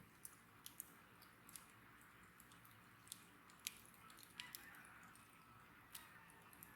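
Wood bonfire crackling faintly: scattered sharp pops and snaps at irregular intervals over a soft hiss.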